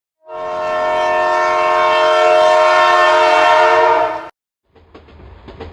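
Train horn sounding one long blast of about four seconds, several tones together, that cuts off suddenly. About half a second later a passing train's wheels start clacking rapidly over the rail joints with a low rumble.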